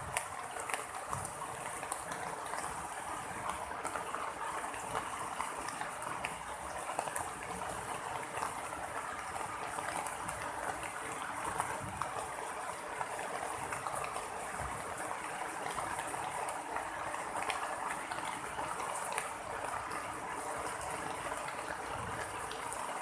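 Steady heavy rain during a thunderstorm: an even hiss of falling water with many small drop ticks, and no thunder.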